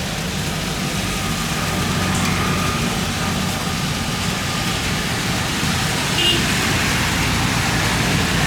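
Heavy rain with a steady low engine rumble and a faint high whine, growing slowly louder.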